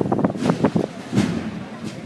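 Several people's voices talking over one another, with no clear words.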